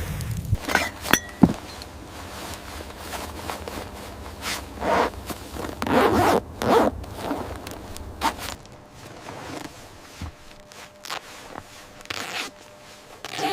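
A zipper being pulled open or shut in a series of short, irregular rasping strokes. A low wind rumble cuts off under a second in.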